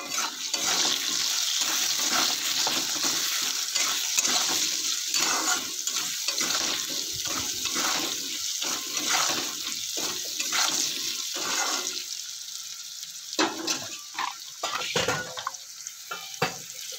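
Diced potatoes frying in hot oil in an iron kadai, a steady loud sizzle with a spatula stirring and scraping the pan, as the potatoes are sautéed with salt and turmeric. The sizzle dies down about twelve seconds in, leaving a few spatula clatters.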